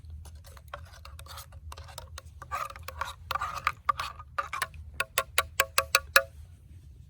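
Small metal multi-tool spoon stirring a cup of hot cocoa-coffee with marshmallows, scraping and clicking against the cup. About five seconds in come a quick run of about eight ringing taps, the spoon knocked against the cup's rim.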